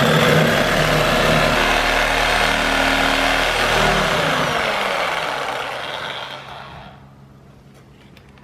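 Electric circular saw running and cutting a board, then winding down in pitch after about four seconds as the blade coasts to a stop.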